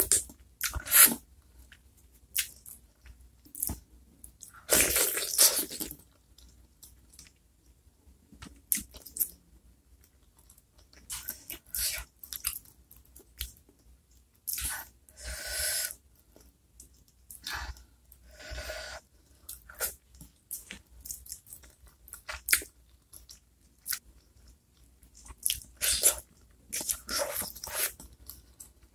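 Close-up mouth sounds of a person chewing and crunching spicy chicken meatballs and chicken feet. They come in irregular bursts, several of them longer and louder.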